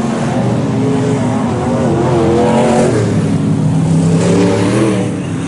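IMCA Northern SportMod race cars running on a dirt oval, several engines at once, their pitch rising and falling as the cars pass and change speed.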